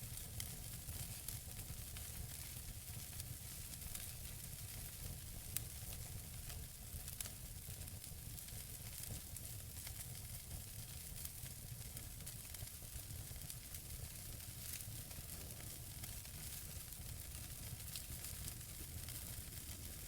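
Wood fire burning in a fireplace, hissing steadily with a low rumble and many small crackles and pops, the sharpest pop a little over five and a half seconds in.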